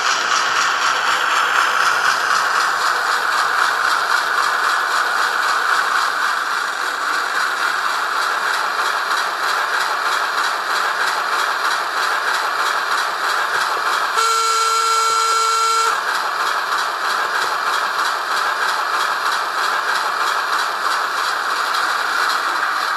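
Hornby Class 08 model shunter's DCC sound decoder playing its diesel engine running, through the model's small speaker. Just past the middle the horn sounds once for about two seconds.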